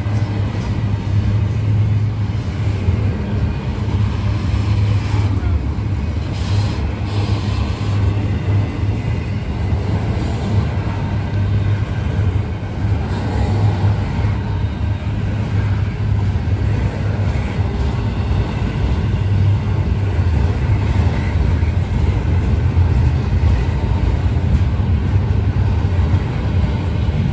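Double-stack intermodal freight train rolling past, its loaded container well cars making a steady low rumble on the rails.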